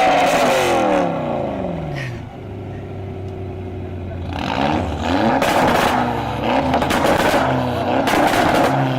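Car engine revved hard. Its pitch falls back to idle over the first two seconds, then it is revved up loud again from about four and a half seconds in.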